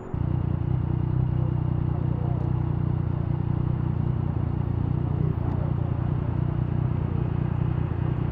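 Motorcycle engine running steadily, a loud deep rumble that holds one pitch with no revving; it cuts in suddenly at the start.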